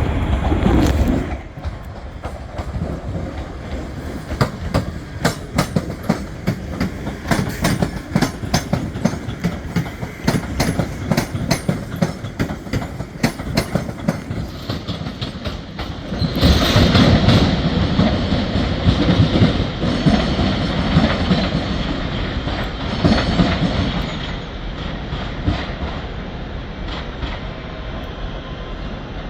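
Train wheels clicking rapidly over rail joints and points as a train moves through the station, followed partway through by a louder stretch of rushing running noise that then fades.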